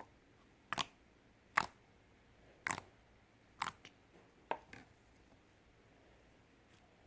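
Five sharp clicks, about one a second, several followed at once by a smaller second click, then quiet.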